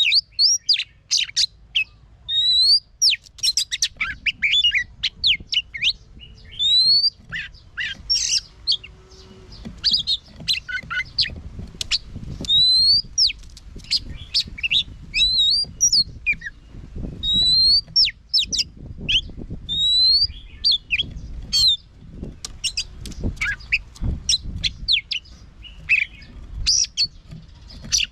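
Oriental magpie-robin singing a varied song of rapid sharp chips and rising whistled notes, with brief pauses between phrases, over a faint low rumble.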